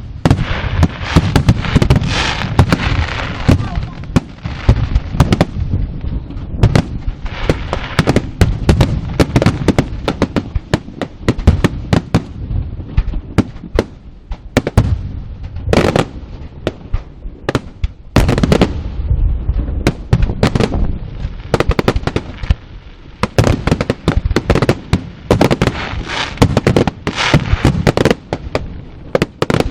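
Fireworks going off in a dense, continuous run of cracks and bangs over a deep rumble, with louder surges every few seconds.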